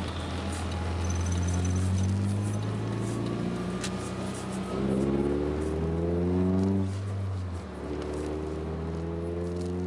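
Peugeot 306 2.0 16-valve four-cylinder engine through an Ulter aftermarket exhaust, its pitch climbing slowly in long rises about three times and dropping back between them.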